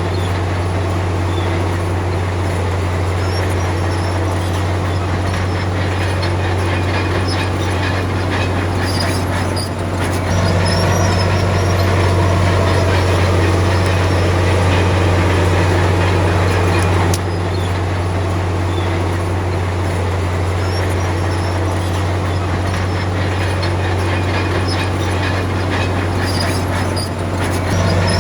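Heavy diesel earthmoving machinery running steadily, a loud deep engine drone with rattling noise over it. The sound changes abruptly about ten seconds in and again about seventeen seconds in.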